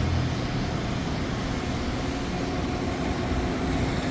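A passing commuter train making a steady rumbling rolling noise, with a faint steady hum; a deep diesel locomotive tone fades out in the first moment.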